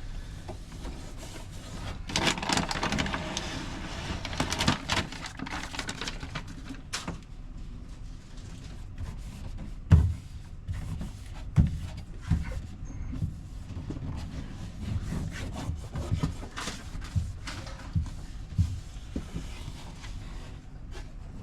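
Rustling and rubbing of a sound-deadening sheet being stretched and pressed into place, with a spell of crackly rustling about two to six seconds in, then scattered knocks, the sharpest about ten seconds in.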